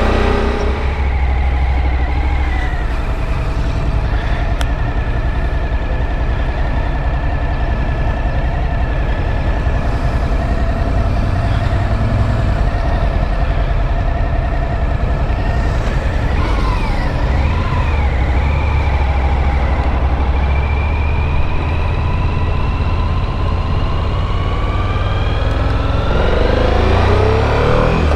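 Motorcycle engine running under way, its pitch mostly steady, wavering briefly past the middle and rising near the end as the throttle opens, over a heavy low rumble.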